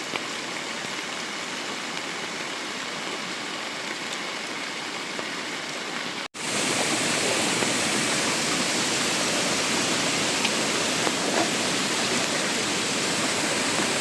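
Steady heavy rain hissing, with no single drops standing out. It cuts off for an instant about six seconds in and resumes louder.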